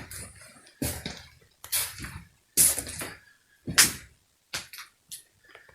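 Footsteps crunching and knocking across a littered floor, about one step a second, with a few quicker, lighter knocks near the end.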